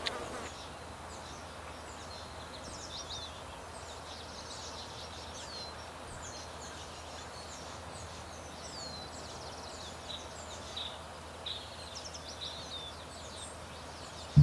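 Small birds chirping: many short, quick downward-sliding chirps, over a steady faint background hiss.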